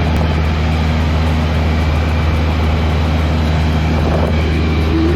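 Small propeller plane's piston engine and propeller running steadily, a loud, even drone at a constant pitch.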